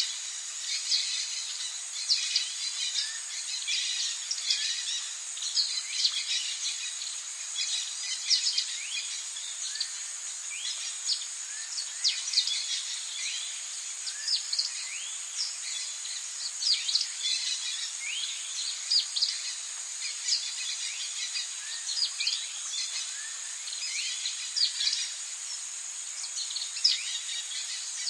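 Tropical birds calling in a dense chorus of many short, quick, downward-sweeping chirps, over a steady high-pitched insect drone.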